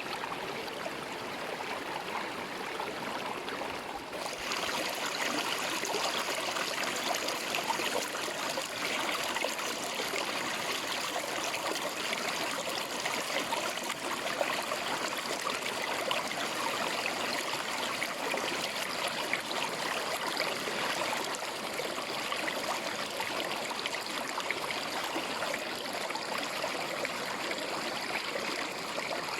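River water flowing in a steady rush, turning a little louder and brighter about four seconds in.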